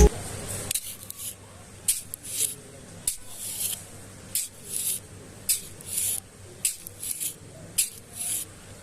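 Repeated short scraping or rubbing strokes, irregular, about two a second.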